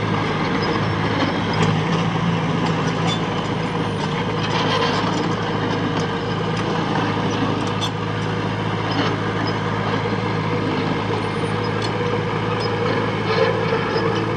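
Heavy diesel earthmoving machinery running steadily under work, a constant low engine drone with scattered light clanks and knocks of metal and stone.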